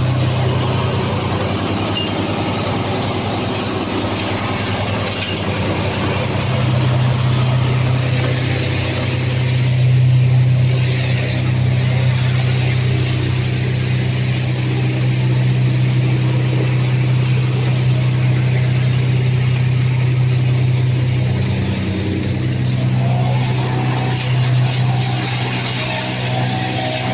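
Wood chipper's engine running steadily with a loud, low drone.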